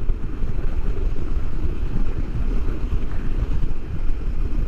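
Wind rushing and buffeting over the microphone of a rider on a moving KTM Norden 901 motorcycle, blended with the bike's running and road noise: a steady, low, unpitched rush that flickers in level.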